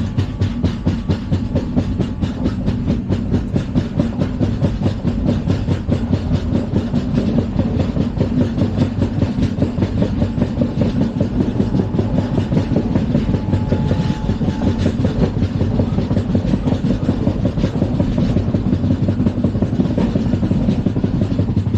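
LHB passenger coaches running at speed, with a steady low rumble and a fast, continuous clatter of wheels over the track.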